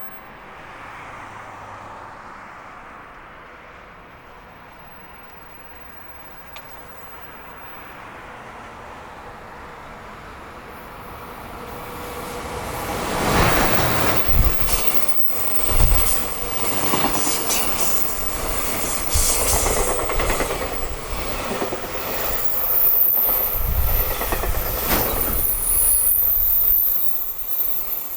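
EF210 electric locomotive hauling a high-speed freight train through the station at speed. A faint, growing rumble of the approach turns loud about 13 seconds in. The train's wheels then clatter over the rail joints as the long line of wagons rushes past.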